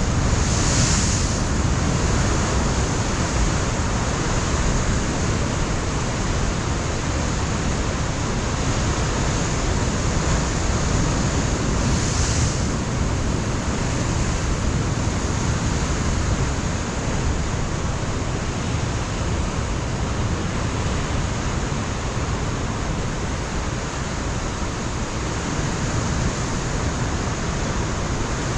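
Pacific surf breaking and washing over a rocky shoreline, a steady roar of white water with wind buffeting the microphone. Brief hissing swells come about a second in and again around twelve seconds in.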